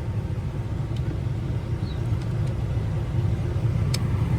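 The 6.7 L Power Stroke turbo-diesel V8 of a 2016 Ford F350 idling with a steady low rumble, with a few light clicks near the end.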